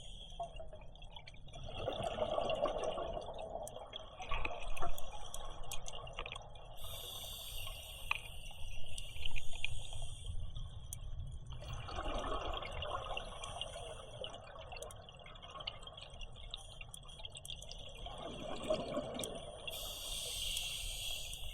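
A scuba diver breathing underwater through a regulator: exhaled bubbles gurgle out in swells a few seconds apart, with spells of high hiss between them. Faint scattered clicks run through the background.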